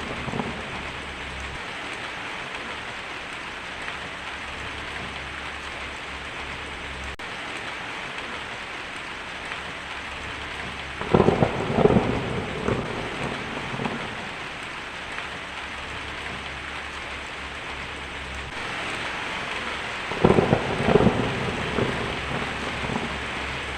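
Heavy rain drumming steadily on a tin roof, with two claps of rumbling thunder, one about halfway through and one near the end.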